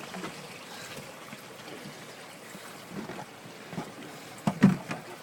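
Steady wind and sea-water noise on a boat at sea, with a few short knocks, the loudest about four and a half seconds in.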